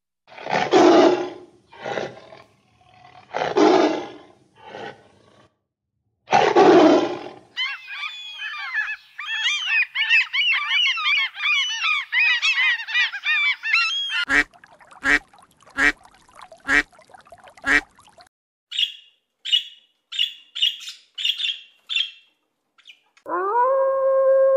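A run of different animal calls, one after another: three loud harsh calls in the first seven seconds, then a dense chorus of overlapping chirps from a flock of birds, then five sharp single calls, a string of short high calls, and a long pitched howl starting near the end.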